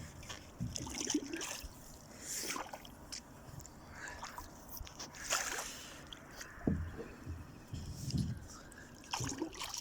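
Water splashing and sloshing around a small boat in irregular strokes as it moves through the water, with a couple of low thumps in the second half.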